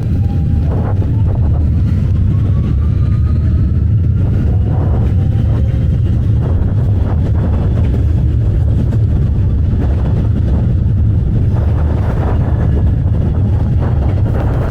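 Subway train running with a steady low rumble and faint whines that rise slowly in pitch during the first few seconds.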